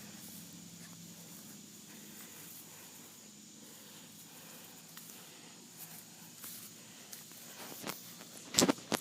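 Faint steady background noise with a few soft clicks, then, near the end, a quick run of loud rustles and knocks, like something brushing or bumping against the microphone.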